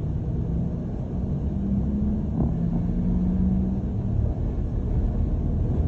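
London bus heard from inside, running with a low rumble. A steady hum comes in about a second and a half in and fades out after about four seconds, with one short knock in the middle.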